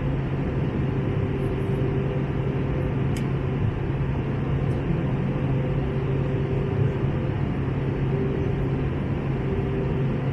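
Steady in-flight cabin noise of an Airbus A321neo with Pratt & Whitney geared turbofan engines. A constant rush of airflow carries a low, even engine hum and a couple of faint steady tones above it.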